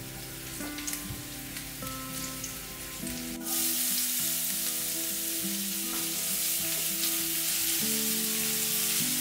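Garlic and crushed peperoncino frying in olive oil in a stainless steel pan with a gentle sizzle; about three and a half seconds in, chopped onion goes into the hot oil and the sizzle suddenly gets louder and stays steady.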